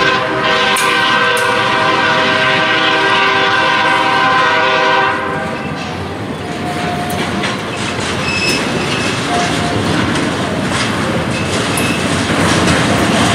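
A freight locomotive's air horn sounds one long chord blast for about five seconds. Then the passing train rumbles on, with wheels clacking over the rail joints and a few brief squeals.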